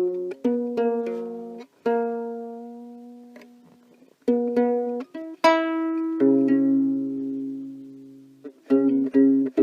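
Ukulele playing chords: several strummed chords, each left to ring and fade, with a long ringing chord in the middle and quicker strums near the end.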